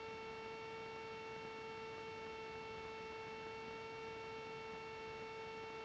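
Faint, steady hum-like tone with a row of even overtones over a light hiss, unchanging: the cockpit audio of a Cessna 310 in cruise, heard through the aircraft's intercom feed rather than as open engine noise.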